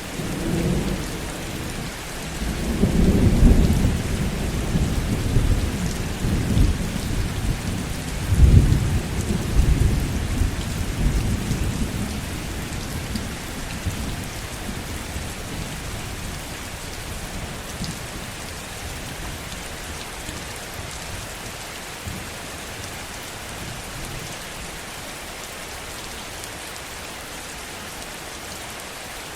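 Heavy steady rain with a roll of thunder: a low rumble swells about three seconds in, peaks again near nine seconds and fades out by about fourteen seconds, leaving only the even hiss of rain.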